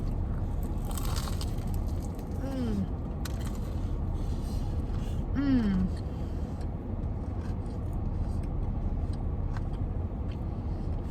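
Steady low rumble of a car heard from inside the cabin, with two short falling voice sounds, about two and a half seconds in and again three seconds later.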